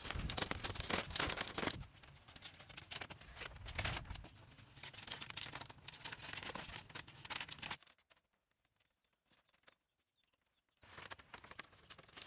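Irregular scraping and crackling with many short clicks and knocks, loudest in the first two seconds. It drops away about two-thirds through and starts again shortly before the end.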